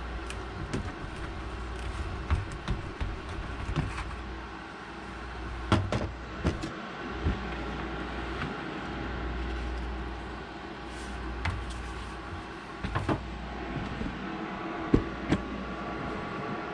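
A steady mechanical hum with scattered clicks and light knocks.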